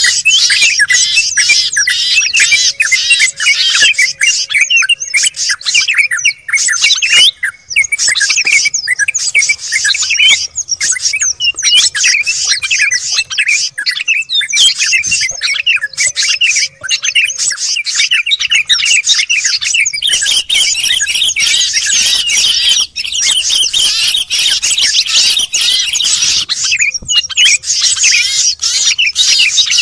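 Dense, noisy chorus of many small songbirds chirping, squawking and trilling at once: a bird-lure (pikat) recording that mixes the calls of several small Indonesian songbirds to draw wild birds down. The rapid high chirps run without a break, briefly thinning about seven seconds in and growing denser for the last ten seconds.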